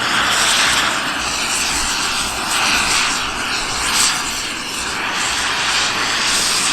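Radio-controlled model airplane engine running as the plane flies low on its landing approach, the sound swelling and fading several times.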